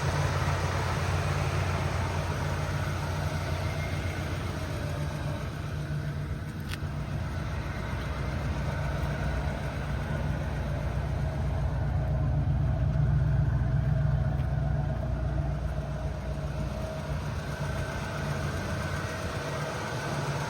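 1985 Ford Crown Victoria's 351 V8 running steadily with a low, even hum, swelling louder for a few seconds past the middle before settling back.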